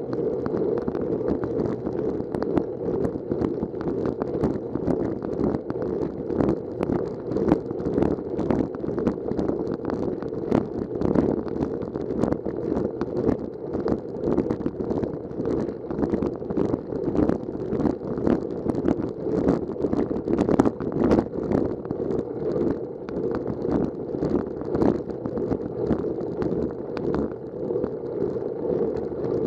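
Steady rush of wind and road noise on a bicycle-mounted camera's microphone while riding, broken by many short sharp crackles.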